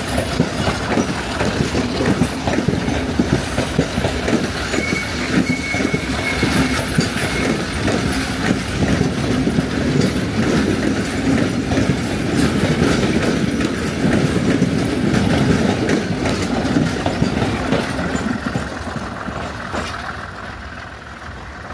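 Sri Lankan passenger train's coaches rolling past close by, the wheels clattering over the rail joints, fading away over the last few seconds as the train draws off.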